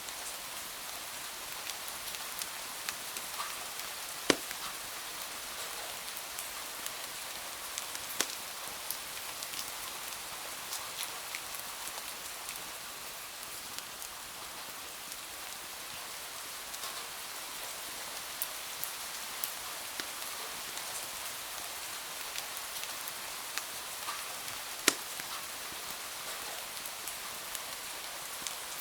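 Steady rain hiss with scattered sharp crackles and pops from a wood fire. The two loudest pops come about four seconds in and a few seconds before the end.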